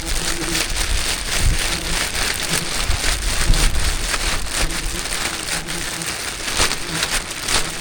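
A dense, irregular crackling patter over the low hum of a swarm of wild bees buzzing.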